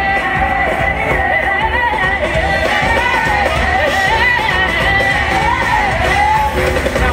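Live amplified music with a voice singing a long, wavering melodic run without clear words, over a steady bass beat, in a large hall.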